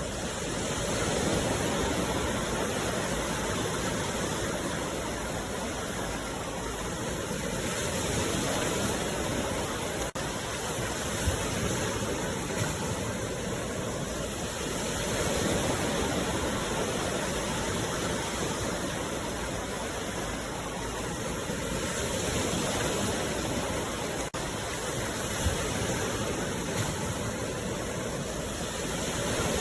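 Sea waves washing onto the shore, a steady rush that swells and eases about every seven seconds.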